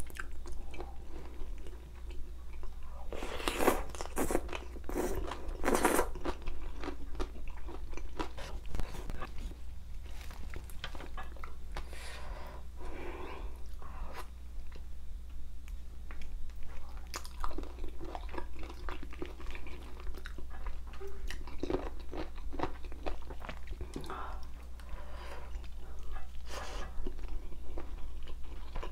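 Close-miked chewing and biting of spicy bone-in chicken feet: irregular wet crunches and clicks, with a denser run of loud crunches a few seconds in, over a steady low hum.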